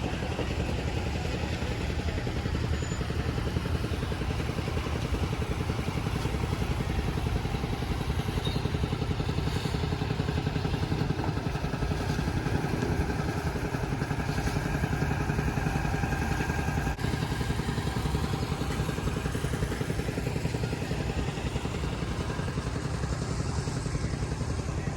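A motor vehicle engine running steadily with a fast low pulse, along with road noise.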